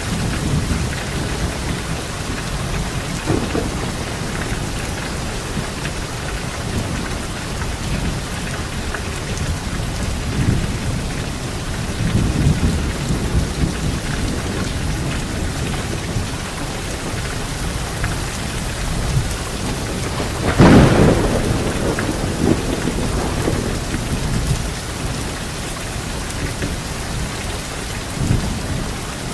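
Steady heavy rain falling, with thunder rumbling low throughout. A louder, sharper thunderclap comes about two-thirds of the way through.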